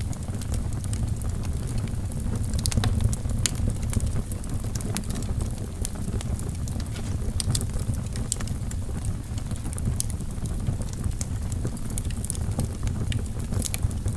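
Wood fire burning in a fireplace: the logs crackle with irregular sharp pops and snaps over the steady low rumble of the flames.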